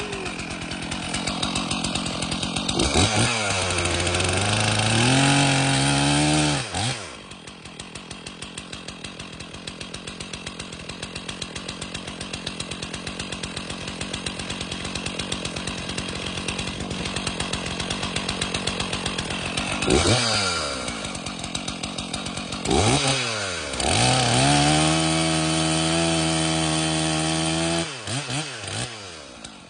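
Stihl MS 461 two-stroke chainsaw idling, revved hard for a few seconds twice with a short blip between, the engine dropping back to idle each time.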